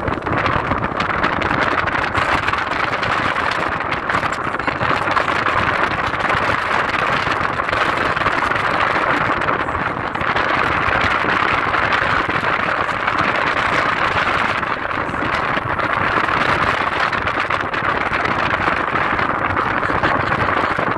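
Car driving along a road: a steady rush of engine and road noise that holds even throughout.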